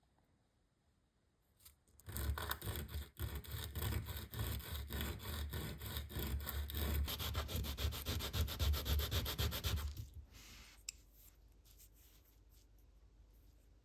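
Sandpaper rubbing quickly back and forth on a wooden model fuselage glued from ice cream sticks, shaping it and rounding its edges. The strokes start about two seconds in and turn fainter and more scattered after about ten seconds.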